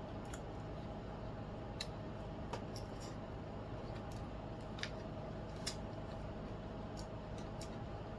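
A few faint, sharp wet clicks of a mouth chewing food close to the microphone, spaced a second or more apart, over a steady low hum.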